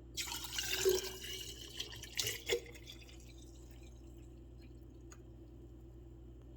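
Homemade sugar-water nectar being poured into a hummingbird feeder, in two spells over the first three seconds, then only a faint steady hum.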